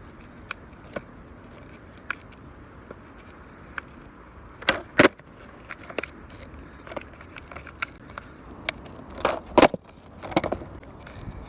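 Irregular light clicks and clattering knocks over a low steady rumble, with two louder clusters of knocks about five and nine and a half seconds in.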